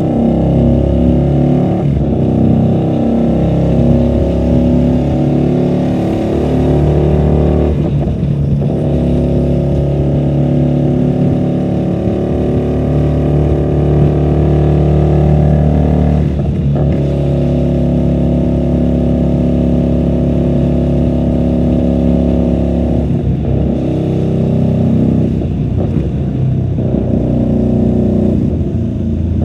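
QJMotor SRV250's V-twin engine through a custom-built 2-into-1 exhaust, under way. It rises in pitch as it accelerates and dips briefly at several gear changes, including about 8 and 17 seconds in. It is heard from a microphone carried in the rider's bag.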